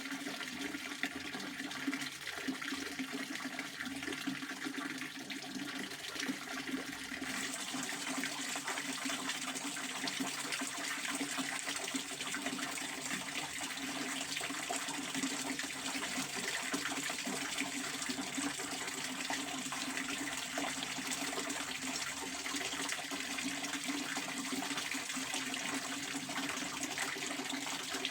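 Pond water fountain splashing steadily, an even rushing of falling water; the hiss grows brighter about seven seconds in.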